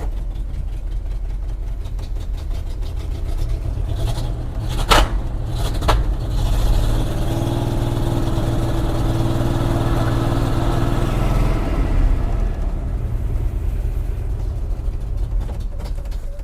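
The AMC 401 V8 of a 1976 Jeep J10 running rough through a large passenger-side exhaust leak, its collector gasket gone. Two sharp backfire bangs about a second apart come around five seconds in, and the engine runs at a steadier, higher pitch for a few seconds midway before stopping near the end.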